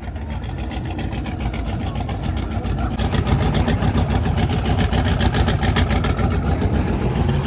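Twin-turbo limousine's engine running with a rapid, loud exhaust pulse that grows steadily louder, stepping up about three seconds in.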